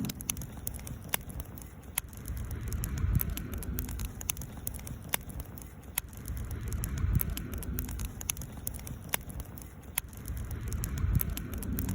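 Wood campfire crackling, with sharp irregular pops over a low rumble that rises and falls every few seconds.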